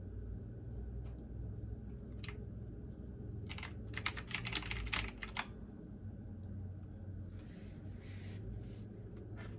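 Computer keyboard typing: a single keystroke, then a quick burst of keys about 3.5 to 5.5 seconds in, and one more near the end. Underneath is a steady low hum from a washing machine running.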